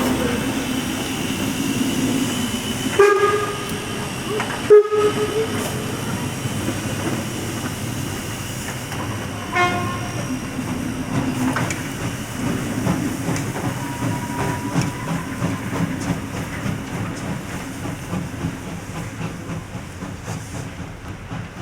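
A train rolling past on the tracks: a steady rumble of wheels on rail, with a few brief tonal sounds over it about three, five and ten seconds in.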